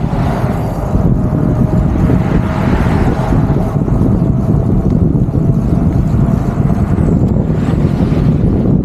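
Wind buffeting the microphone of a handlebar-mounted action camera on a moving gravel bike, a steady loud low rumble.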